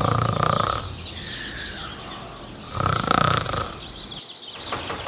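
Snoring: two loud snores about three seconds apart, each carrying a steady whistle-like tone, with a softer gliding whistle between them.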